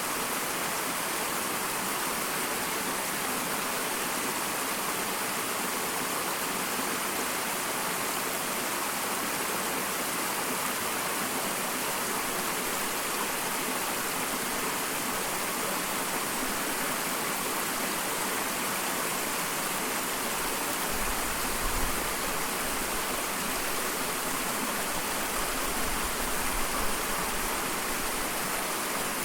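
Small waterfall: a steady, even rush of falling water, with a couple of brief low rumbles about two-thirds of the way in and again near the end.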